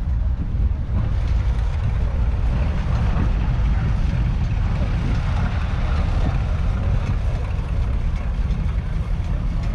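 1979 Ford 6600 tractor's 4.2-litre four-cylinder diesel engine running steadily.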